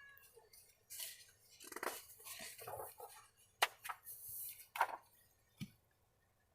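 Pages of a picture book being turned and handled: soft paper rustles with scattered light taps and a few sharper clicks.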